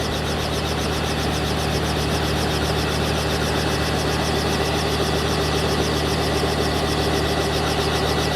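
Helicopter running on the ground, engine and rotor turning steadily with a fast, even pulsing over a low hum.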